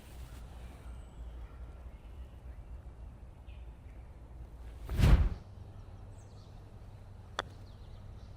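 A full gap wedge swing striking a golf ball about five seconds in: one brief, loud strike. A short sharp click follows near the end.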